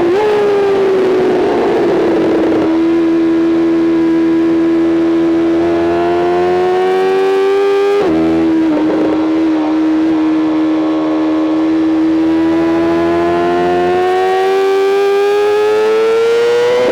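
BMW M 1000 RR superbike's inline-four engine at high revs under throttle, with wind rush. About eight seconds in a quick gear change briefly dips the pitch, after which the revs climb slowly and steadily.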